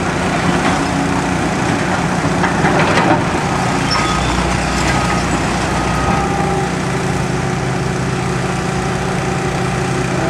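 Heavy demolition equipment's engine running steadily under load, with scattered knocks and cracks that are busiest about two to three seconds in.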